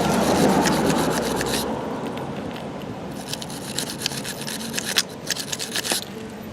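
Hand-tool scraping and rubbing, loudest in the first couple of seconds, followed by a run of sharp, irregular clicks and taps from about halfway through.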